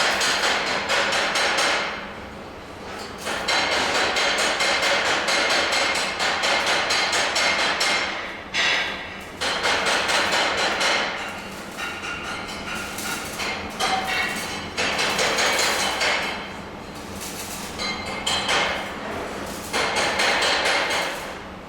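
Metalworking in a welding workshop: repeated bursts of rapid, crackling metallic impacts, each lasting a second or few, with short pauses between them.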